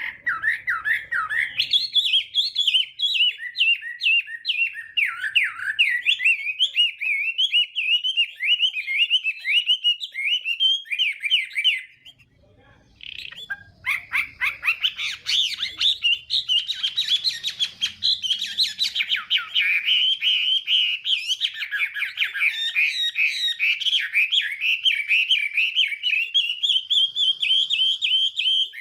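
Chinese hwamei (họa mi) singing a long, fast run of varied whistled phrases, with a pause of about two seconds near the middle before the song resumes.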